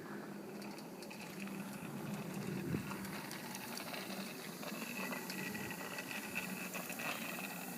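Faint steady background noise with a low hum and a few light ticks.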